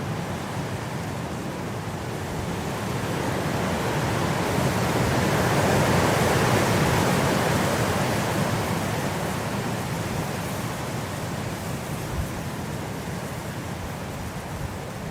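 Blizzard wind blowing in a steady rush that swells into a strong gust about six seconds in, then eases back.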